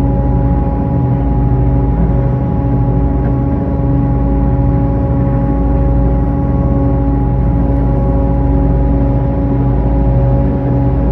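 Sightseeing river boat's engine running steadily, a constant low rumble under several held humming tones.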